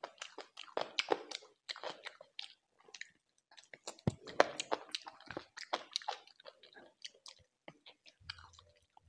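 A person chewing and biting into chicken: irregular clusters of short, crackly clicks, with one sharper crack about four seconds in.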